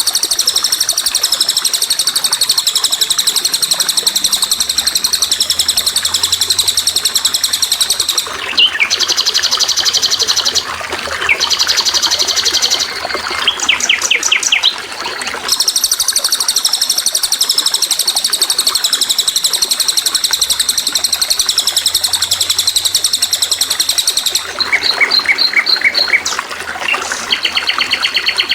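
Songbird singing long, high, buzzy trills that run for several seconds at a time, broken by quick runs of repeated chirps, over a steady trickle of running water.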